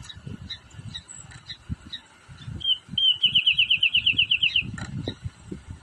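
Wrentit singing: a rapid, even trill of about fifteen notes lasting a bit over a second, about halfway through, among short high chip notes repeated every fraction of a second.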